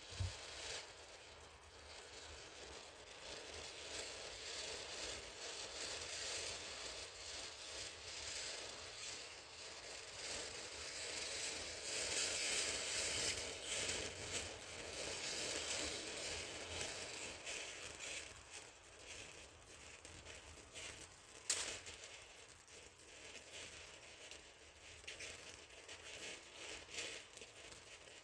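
Lightning Hero ground fountain firework spraying sparks with a steady hiss that swells about halfway through, a single sharp pop about two-thirds in, then crackling toward the end as the fountain reaches its crackle finale.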